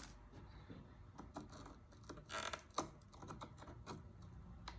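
Faint scattered clicks and taps, with a short scraping rasp about two seconds in: hand tools and a soldering iron working pieces of glass loose from a copper-foiled stained glass panel.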